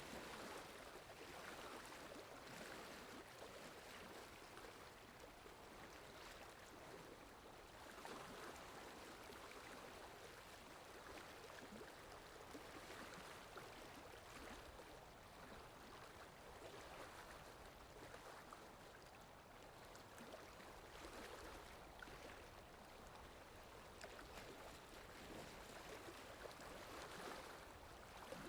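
Faint, steady water ambience: a soft, watery hiss that swells and eases every few seconds.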